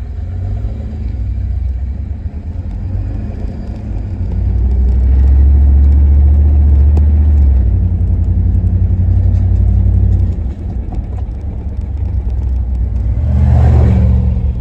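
1990 GMC 1500 pickup's engine and road noise heard from inside the cab on the move: a loud low rumble that swells about four seconds in, eases off after about ten seconds, and rises again near the end. The engine is working in a lower gear because the transmission won't shift into third, which the owner puts down to too much transmission fluid.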